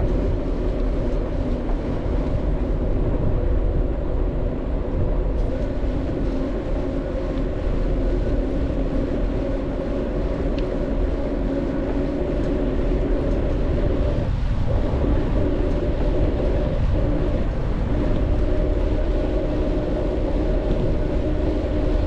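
Steady wind rush and road rumble from a touring bicycle rolling along a paved road at riding speed.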